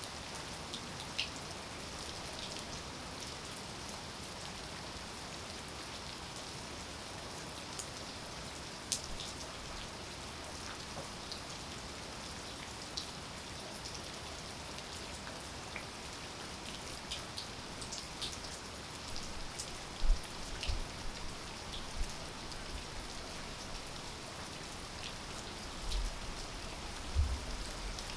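Steady rain falling, with individual drops ticking sharply on nearby surfaces. A few low, soft thumps come about two-thirds of the way in and again near the end.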